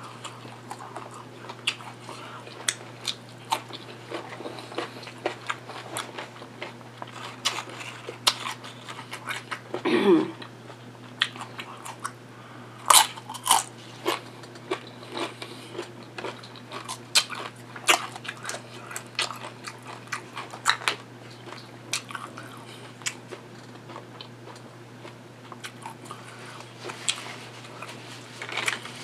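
Close-up chewing and crunching of food, with irregular crisp crackles and clicks from the mouth throughout. About ten seconds in there is a short falling hum of enjoyment.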